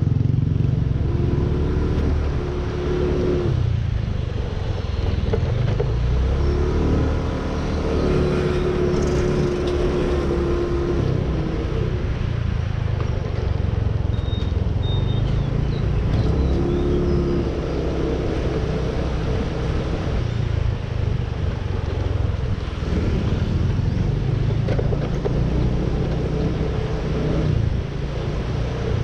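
Motorcycle riding in city traffic: a steady low rumble of engine and road noise, with the engine note rising and holding three times.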